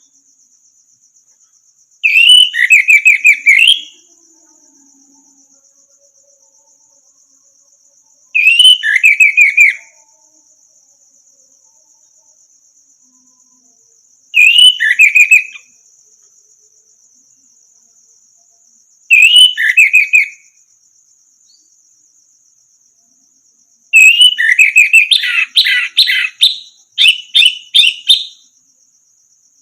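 Orange-headed thrush singing: five short phrases of quick whistled, down-slurred notes with pauses between them, the last phrase longer and fuller. A steady high insect-like buzz runs underneath.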